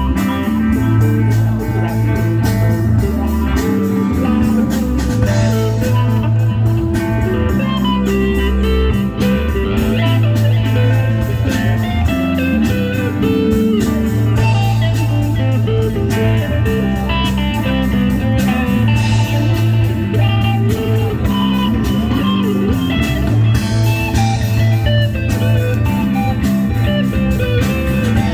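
Live rock band playing an instrumental passage with electric guitar lines over bass and drums.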